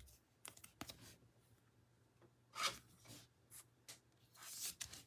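Faint rustling and light clicks of trading cards being handled, with a soft swish of a card sliding about two and a half seconds in and another near the end.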